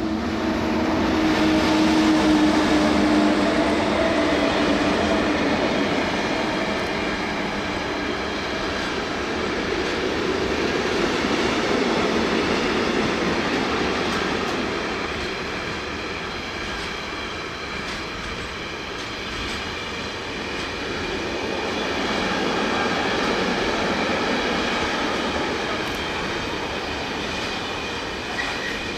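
Train on the Semmering mountain railway, a steady running rumble of wheels on rails that swells quickly at the start and then holds. A low hum in the first several seconds fades out.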